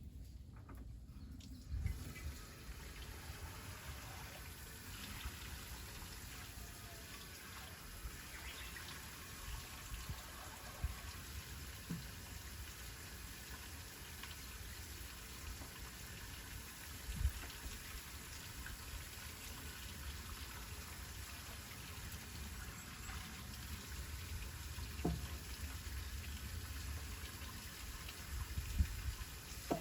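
Water running steadily, with a few soft knocks.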